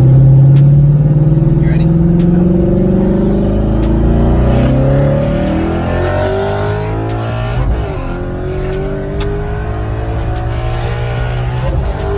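Twin-turbo 5.0 V8 Mustang accelerating hard at full throttle, its engine pitch climbing steadily. A gearshift about eight seconds in drops the pitch, and then it climbs again.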